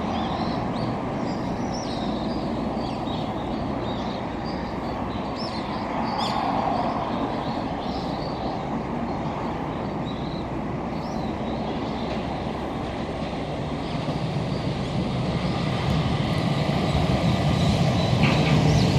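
Birds chirping over a steady background rumble, then a Keihan Keishin Line train approaching and growing louder over the last few seconds.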